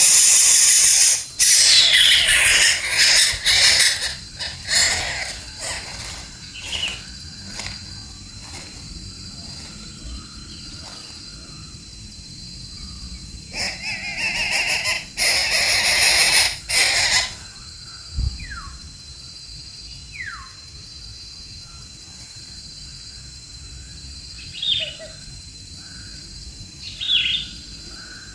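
A bird's harsh, hissing screeches: a run of loud noisy calls in the first few seconds and again about midway. A few short whistles falling in pitch and two brief faint calls follow near the end.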